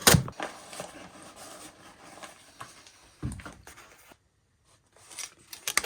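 Hand-handling noises from unpacking a knife package: a sharp knock at the start, then faint rustling and a few small clicks and taps.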